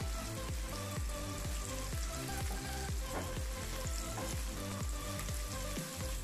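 Paneer cubes sizzling as they fry in oil in a pan, turned with a wooden spatula, over background music with a steady beat.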